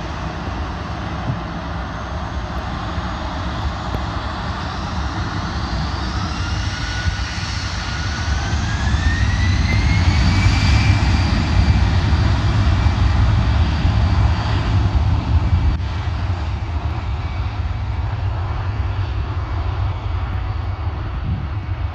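Jet airliner passing close by, its engines producing a deep rumble with a whine that glides up in pitch, growing loudest about halfway through and then slowly fading.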